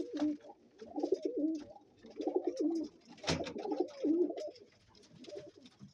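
Roller pigeon cooing in a series of short repeated phrases, the dominant display coo the keeper takes as the sign of a cock bird. A single sharp knock sounds about three seconds in.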